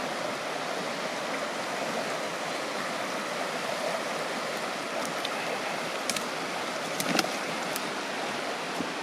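A creek running steadily: an even rushing of flowing water, with a few faint clicks past the middle.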